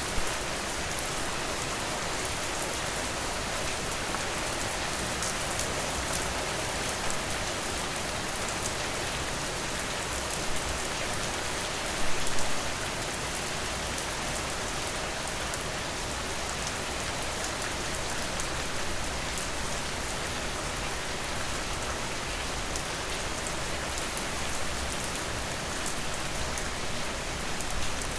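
Steady rain falling on a surface: an even hiss filled with many small drop ticks. A short cluster of louder pops comes about twelve seconds in.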